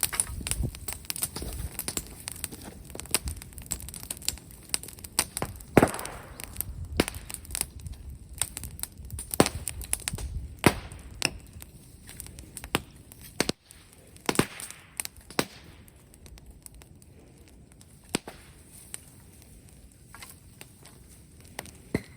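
Bonfire of brushwood crackling, with sharp snaps and pops at irregular intervals, a few of them loud.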